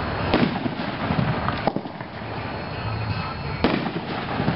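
Winda Pyro Candy 9-shot consumer fireworks cake firing: three sharp reports, roughly one to two seconds apart, with crackling between them.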